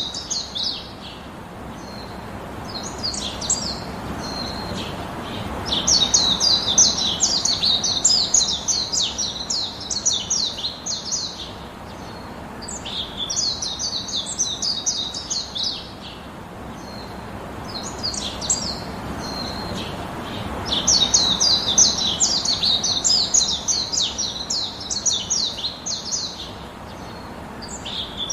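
Baya weavers chattering: bouts of rapid, high chirping a few seconds long, repeated with short pauses between them.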